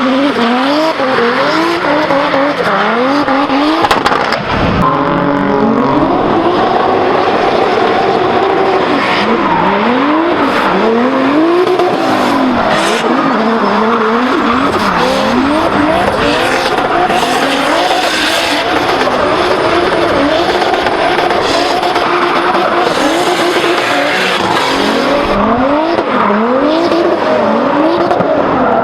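Turbocharged Toyota 2JZ-GTE engine in a drift car, revved up and dropping back again and again, about once a second, with tyres skidding and squealing. There is a sharp knock about four seconds in.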